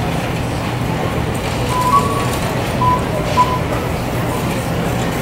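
Steady road and engine noise from inside a moving car, with a few short high tones about two and three seconds in.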